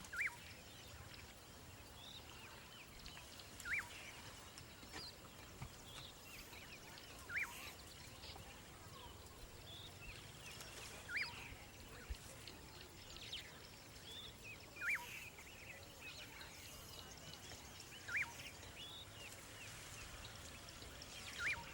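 A bird repeating a short, clear call note about every three and a half seconds, seven times in all, over faint scattered chirps of other birds.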